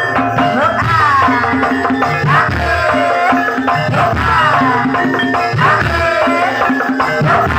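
Music accompanying an ebeg (kuda kepang) horse dance: steady drums and percussion under a melodic line that slides down in pitch again and again.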